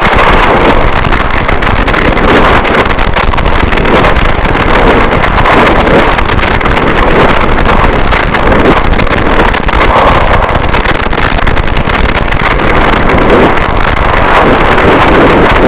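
Harsh noise wall: a loud, unbroken wall of distorted static with a slowly shifting, churning texture and no distinct hammer strikes.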